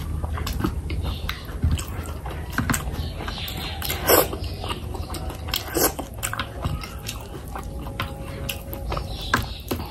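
Close-miked wet chewing and lip-smacking of someone eating oily fish curry by hand. It comes as a run of small mouth clicks, with a few louder wet smacks, the loudest about four seconds in and again near six seconds.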